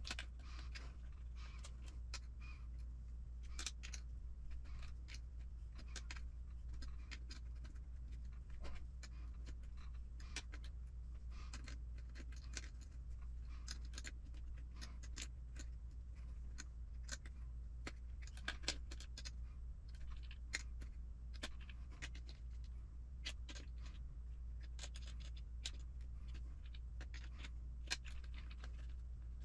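Scattered small metallic clicks and scrapes of hand tools and parts being worked while the screws on an RC10T truck's suspension arms are tightened, over a steady low hum.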